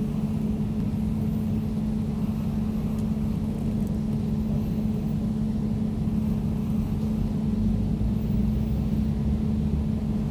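Air conditioner running with a steady low hum and an even whir of air.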